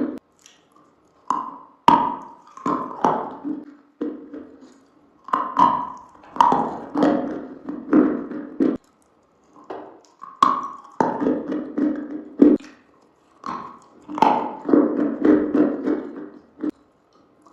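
Close-miked eating sounds of sweets: irregular bites, crunches and taps, some in quick runs, separated by short pauses.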